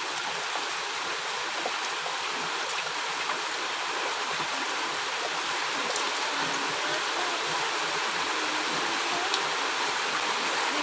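Heavy rain falling steadily: an even rushing hiss of water, with a few sharp drips or splashes standing out now and then.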